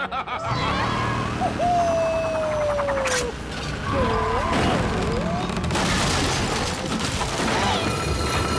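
Cartoon sound effects: a continuous loud rumbling and clattering with several sharp crashes. Over it come a long falling tone and, about four seconds in, wavering cries.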